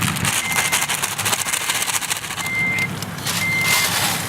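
A vehicle's reversing alarm beeping: a steady high tone, each beep just under half a second long, repeating about once a second. Underneath is an even noise of a running vehicle.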